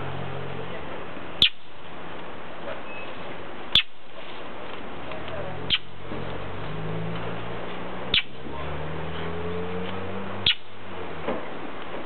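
A bird giving a short, sharp call five times, about every two and a half seconds, each note dropping quickly in pitch, over a steady background hiss.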